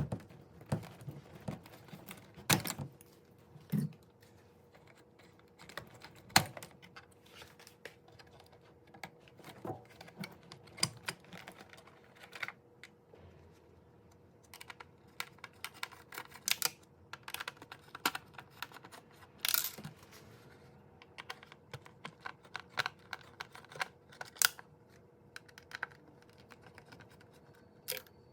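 Irregular small clicks, taps and rattles of plastic parts and wire connectors being handled while a dishwasher's control board and its cover are taken apart, over a faint steady hum.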